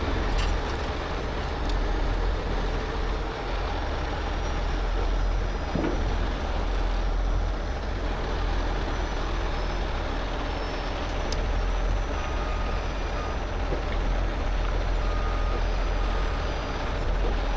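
Heavy rotator tow truck's diesel engine running steadily with a deep rumble while it works the recovery, with a few short beeps in the second half.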